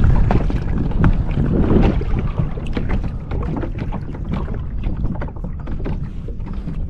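Water lapping and splashing against a kayak, with wind buffeting the microphone and many small knocks and splashes; the wind rumble is strongest in the first two seconds.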